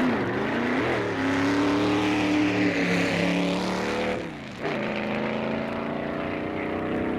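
Drag-racing car engine running hard at high revs. Its pitch rises at the start, holds, then drops and dips briefly a little past four seconds in before running on steadily.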